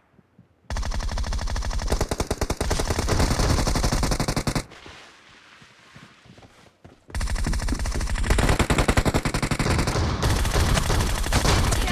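Video-game automatic gunfire: two long sustained bursts of rapid shots, about four seconds each, with a quieter gap of a couple of seconds between them.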